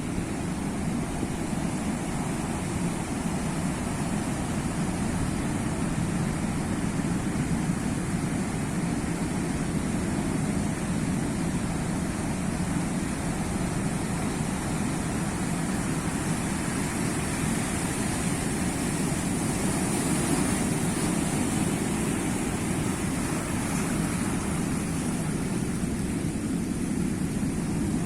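Sea waves: a steady wash of surf that swells slightly about two-thirds of the way through.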